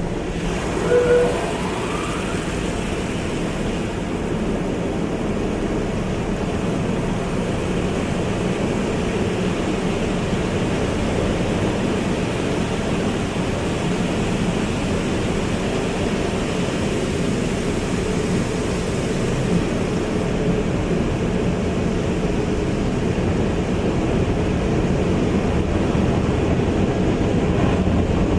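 Car wash running: a steady rushing noise, with a brief rising tone about a second in.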